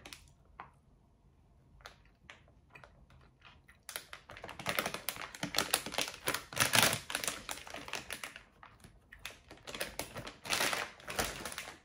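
Close-up chewing of a sour gummy worm: irregular wet, clicky mouth sounds, sparse at first and coming thick and fast from about four seconds in.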